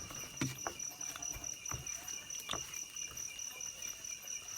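Insects chirping in a steady, pulsing high trill, with a few faint knocks.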